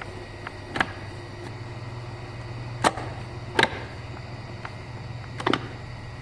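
Hyundai Accent manual gearbox in reverse gear, turned by hand: four sharp metallic knocks at uneven intervals over a steady low hum. The knock is suspected to come from the differential or somewhere inside the gearbox.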